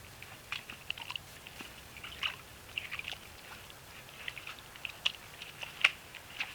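North American beaver gnawing on a branch: irregular crunching and crackling of wood, with one sharper crack near the end.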